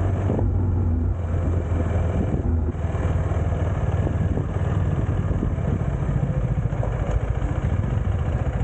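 KTM 390 motorcycle's single-cylinder engine running steadily while riding, with a strong low engine note under a rough, continuous hiss.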